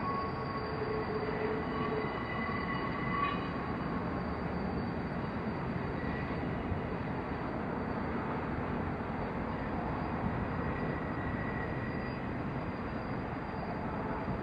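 Train rolling past with a steady rumble of wheels on rail. Thin, high wheel squeals ring over it for the first few seconds, and fainter ones come back now and then.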